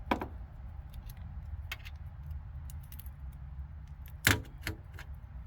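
A few sharp clicks and light metallic rattles from small parts being handled, the loudest about four seconds in, over a steady low hum.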